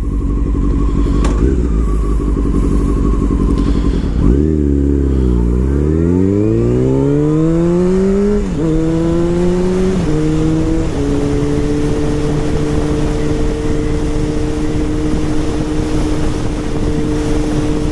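Sport-bike engine heard from the rider's seat: it holds a low pitch, dips, then climbs as the bike accelerates, with three quick upshifts in a row, and settles into a steady cruise for the last seven seconds or so.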